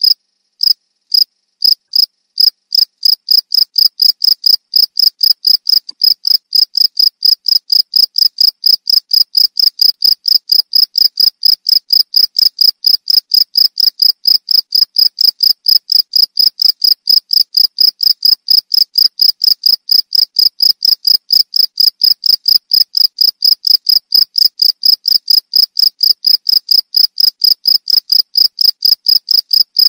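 Cricket chirping loudly in a fast, even train of short high-pitched chirps, about four a second. It starts with a few spaced chirps after a brief pause and quickly speeds up to the steady rate.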